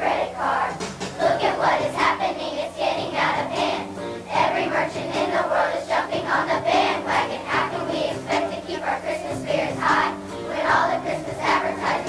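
Elementary-school children's choir singing a song with instrumental accompaniment.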